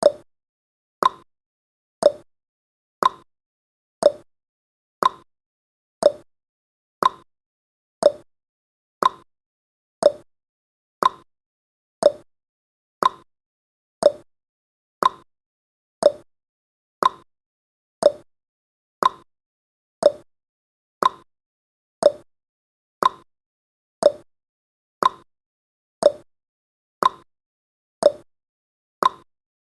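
Countdown timer tick sound effect: one short, sharp tick every second, evenly spaced.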